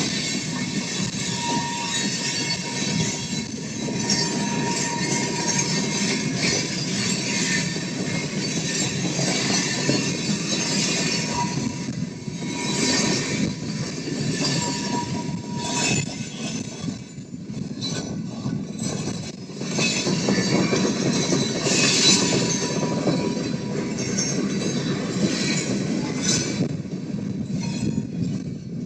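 A train's railcars rolling on the rails: a steady rumble of wheels with irregular clanks, and a thin wheel squeal that comes and goes.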